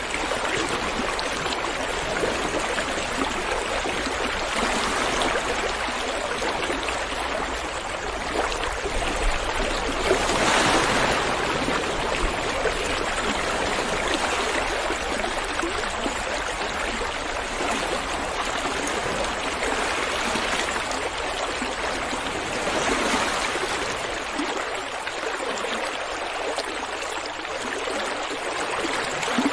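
Running water of a stream flowing steadily, with a few brief louder swells.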